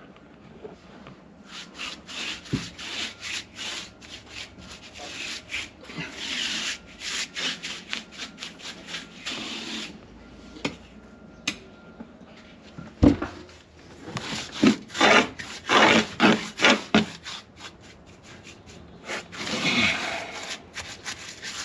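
Paint roller worked back and forth over wet oil-base paint mixed with sand, in repeated gritty rubbing strokes, with a single knock about 13 seconds in.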